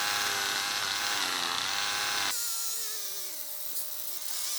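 Small electric hobby polishing tool with a sponge head buffing a clear plastic part with polishing compound, running as a steady whine. About halfway through the sound drops abruptly, turning quieter with a wavering pitch.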